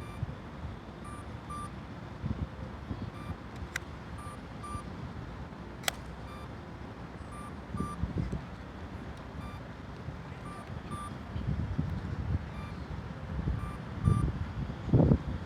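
Wind buffeting the microphone in gusts, with short high electronic beeps repeating at irregular intervals, often in pairs, and a couple of sharp clicks.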